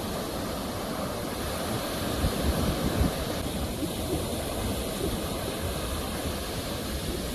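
Ocean waves washing on a shore: a continuous rushing surf with a low rumble, swelling a little a couple of seconds in.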